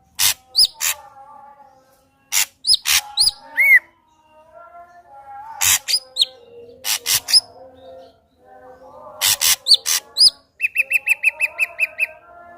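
Ashy drongo singing in short phrases of sharp clicks and whistled glides, with pauses between them. Near the end comes a fast run of about ten repeated notes.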